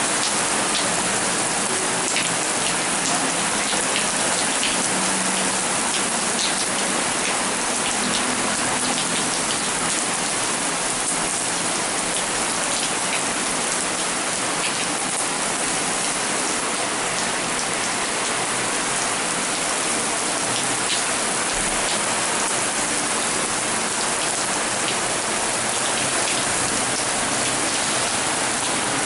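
Heavy rain falling steadily, a dense even hiss with scattered drop splashes.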